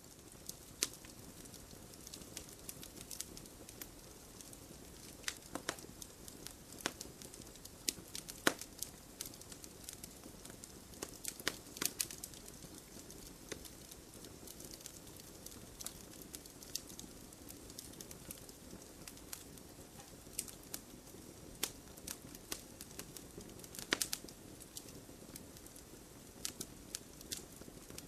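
Wood campfire burning, with irregular sharp crackles and pops over a steady low hiss. The loudest pops come about eight, twelve and twenty-four seconds in.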